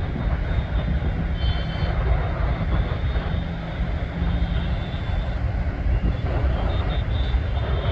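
Airbus A320 jet airliner on final approach, its jet engines giving a loud, steady rumble with a faint high whine that comes and goes.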